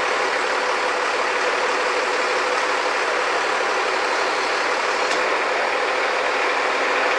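Engine of heavy machinery running steadily at a constant speed: an even drone with a steady hum.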